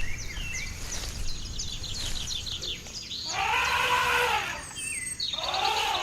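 Savanna wildlife ambience: a quick run of short bird chirps, then two longer drawn-out animal calls, each about a second long, rising and then falling in pitch, over a low steady rumble.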